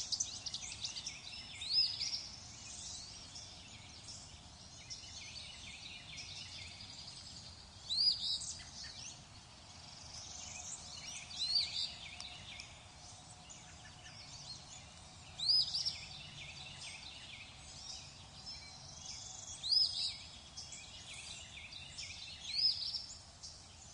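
Small songbirds chirping, with a louder rising call every three to four seconds over a faint background hiss.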